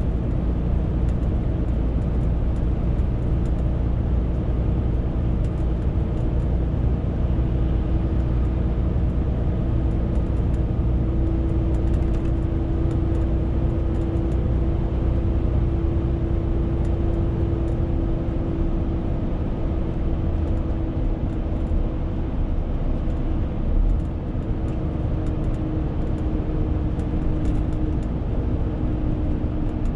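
Renault T520 truck's 13-litre six-cylinder diesel running steadily while hauling a 40-tonne load, with an engine note that strengthens for a few seconds in the middle. A brief low thud comes about three-quarters of the way through.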